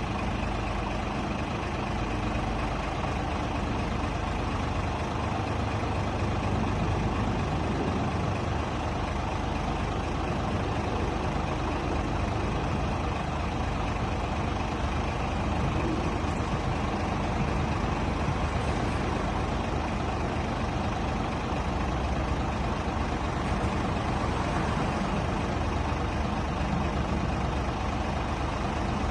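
Scania R450 truck's 13-litre straight-six diesel engine running steadily, with an even, unchanging engine and mechanical noise.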